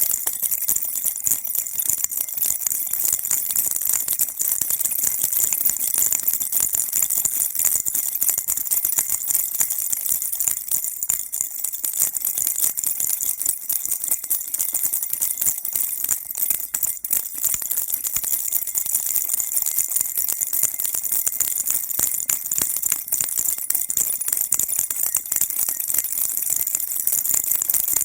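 Baby rattle shaken without a break: a steady, bright jingling of many tiny clicks.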